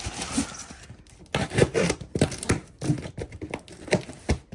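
Packaging being handled while unpacking a boxed electric motor: irregular rustling, tearing and light knocks.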